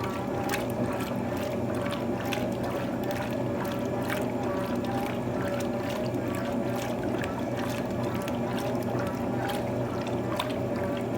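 Electrolux TOP8A top-loading washing machine running, a steady motor hum under irregular splashing and sloshing of water in the drum.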